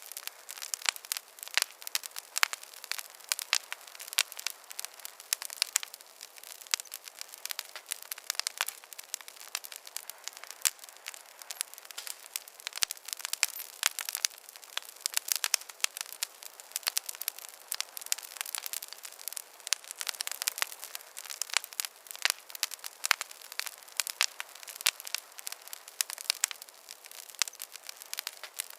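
Wood fire burning with dense, irregular crackling and popping over a faint hiss.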